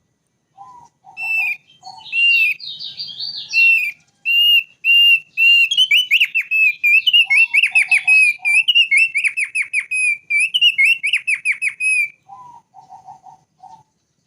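Thick-billed white-eye (opior paruh tebal) singing: a long run of loud, repeated whistled notes with fast trills, stopping about two seconds before the end. Groups of short, lower notes come in near the start, in the middle and near the end.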